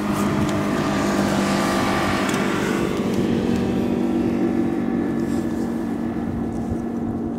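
Boat's outboard motor running steadily, an even hum with several steady tones under a noisy wash that eases about three seconds in.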